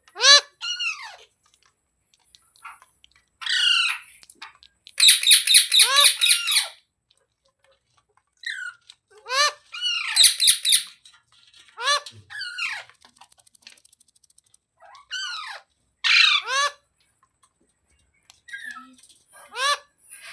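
Parrot squawking in harsh, arching calls, given in about seven bursts of several notes each with short pauses between them; the longest burst, a rapid run of calls, comes about a quarter of the way in.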